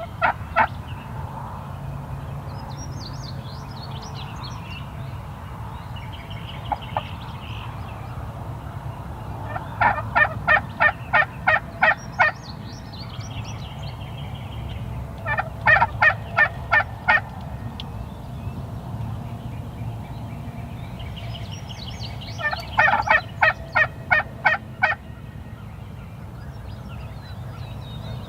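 Turkey calling in three runs of about eight evenly spaced notes, with fainter songbird twittering behind.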